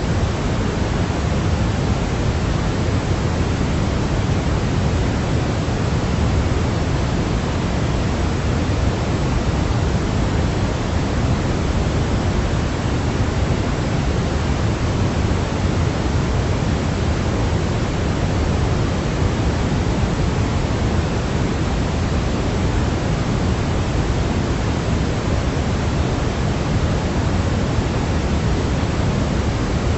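Steady synthetic noise for baby sleep, weighted toward the low end like pink noise, running unchanged at an even level with no other sounds.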